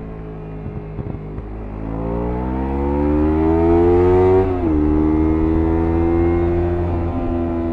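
Kawasaki Ninja 300's parallel-twin engine under acceleration. The revs climb for about two seconds, drop sharply at an upshift about four and a half seconds in, then hold fairly steady in the next gear.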